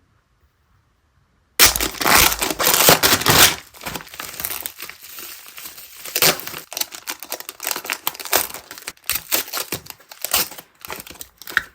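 Packaging being unwrapped by hand: loud crinkling and tearing starts about a second and a half in, strongest for the first two seconds, then goes on as lighter crinkles and rustles.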